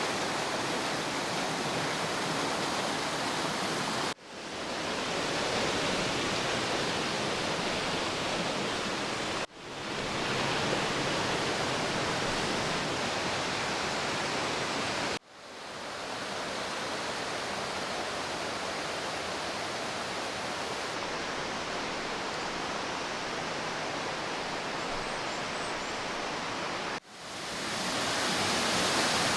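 Steady rush of running water, like a mountain stream or waterfall. It cuts out four times, each time fading back in over a second or two.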